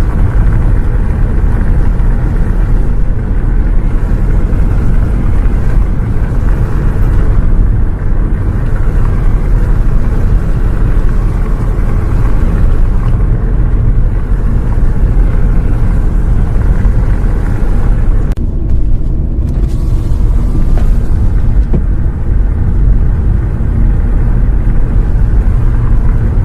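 Loud, steady low rumble of a bus in motion heard from inside, the engine and road noise droning without letting up. It switches on abruptly and cuts off abruptly.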